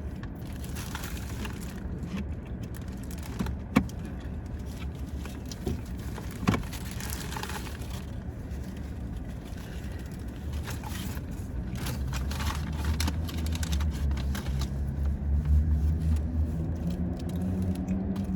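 Low, steady vehicle rumble inside a car cabin, growing louder toward the end, with scattered scrapes, rustles and a couple of sharp clicks from fast-food packaging being handled.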